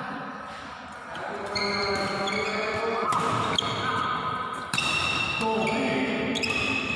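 Badminton being played in a sports hall: sharp racket hits on the shuttlecock, heard as separate cracks, the clearest a little past the middle, over a steady mix of hall noise.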